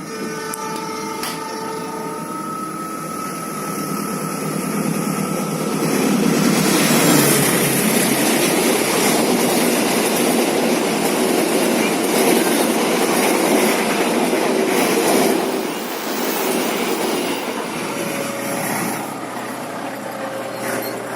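A train passing on the track: its rumble and wheel noise build from about four seconds in, are loudest for some ten seconds, then ease off.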